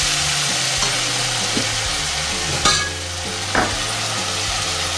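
Ground spices and green masala paste sizzling in hot oil in an aluminium kadhai as they are stirred with a steel ladle, a steady frying hiss. There are two sharp knocks of the ladle against the pan, about two and a half and three and a half seconds in.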